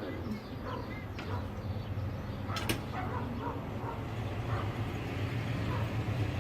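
A dog giving several short barks over a steady low background hum.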